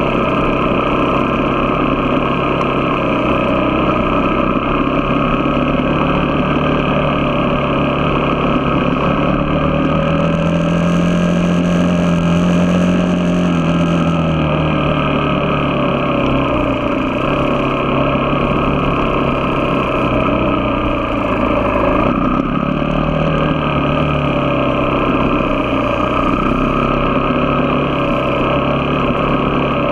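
Vehicle engine running under way with steady road noise. The engine note climbs about a third of the way in, settles again, and dips briefly twice later on.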